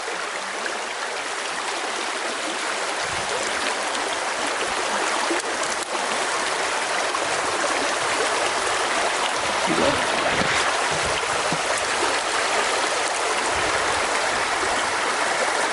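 Creek water flowing and rippling in a steady rush, growing a little louder as it goes.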